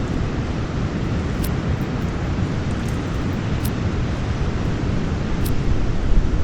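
Campfire burning: a steady low rumble with a few sharp, scattered crackles, three of them louder than the rest.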